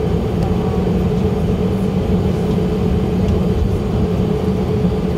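Steady cabin noise inside an Airbus A319 with its engines running: an even hum with a thin steady tone, holding level with no rise or fall.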